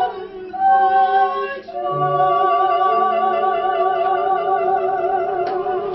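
Singing of a song's closing line, ending on one long note held with vibrato.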